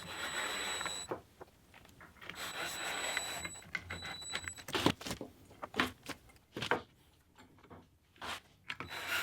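Power drill running in three short bursts with a steady high whine, driving screws during assembly, followed by several separate sharp knocks.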